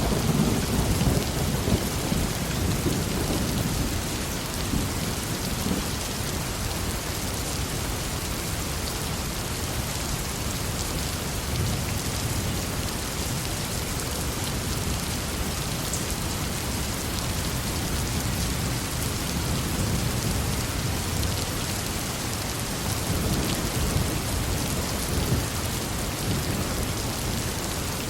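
Heavy rain falling steadily, with thunder rumbling low in the first few seconds and again several times later.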